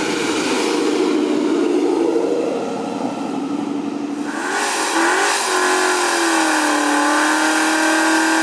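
Ford Mustang GT's V8 engine, its note falling slowly in pitch as the car drives, then, about four and a half seconds in, an abrupt change to the engine held at a steady pitch during a tyre-smoking burnout.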